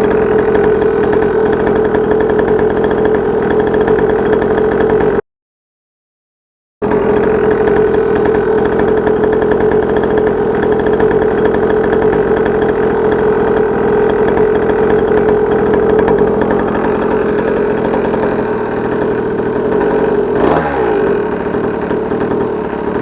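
Two-stroke pit bike engine running steadily through a home-made muffler. The sound cuts out for about a second and a half around five seconds in, and a short falling sweep in pitch is heard about twenty seconds in.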